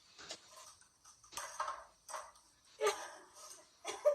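Pani puri being eaten: crisp puri shells cracking and being chewed, about five short crunchy clicks at irregular intervals with softer mouth noises between.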